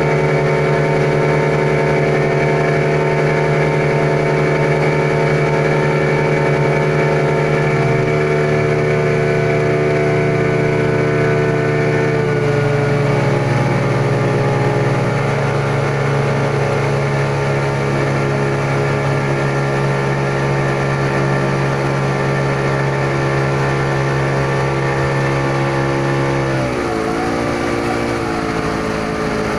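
Small passenger boat's engine running steadily under way. Its pitch drops about eight seconds in, shifts again a few seconds later, and dips briefly before settling near the end.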